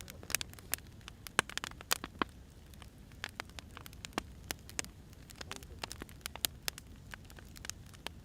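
Burning firewood crackling: irregular sharp pops and snaps, several a second, over a steady low background noise.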